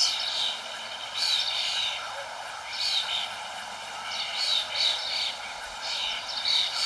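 Birds chirping in short, high bursts every second or so, over a steady background hiss.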